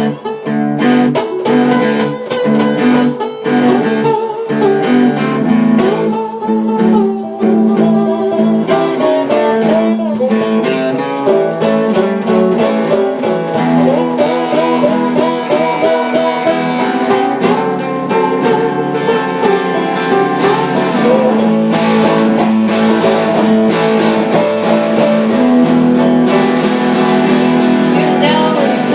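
Guitar playing a blues passage in picked notes and strums, with some notes bent.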